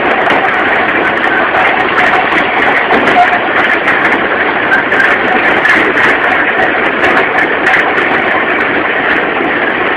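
Two-foot gauge train cars rolling along the track, a steady loud rattle and rumble with frequent sharp clicks.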